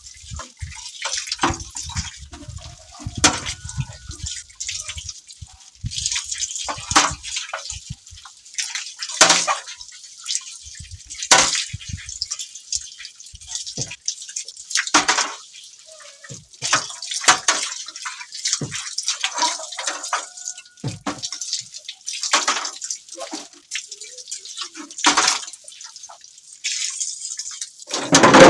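Water splashing and dripping in irregular spurts, with scattered sharp knocks, as a refrigerator is washed down. A louder knock comes right at the end.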